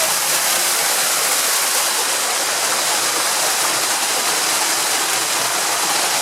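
Waterfall splashing down steadily: an even, unbroken rush of falling water.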